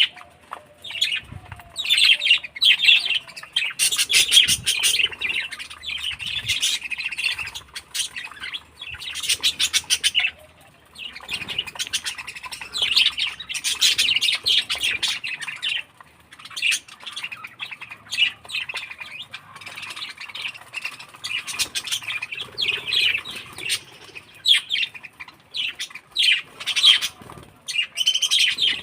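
Budgerigars chattering and warbling, fast chirps and squawks coming in bouts with short pauses between them.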